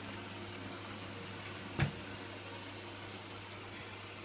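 Washing machine taking in water at the start of a wash: a steady rushing hiss with a low steady hum, and one sharp knock about two seconds in.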